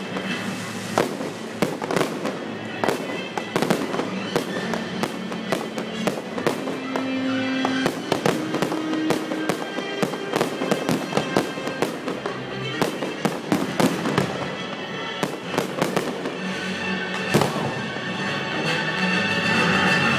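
Fireworks display: aerial shells bursting in a rapid, irregular series of bangs and crackles, over music playing with the show.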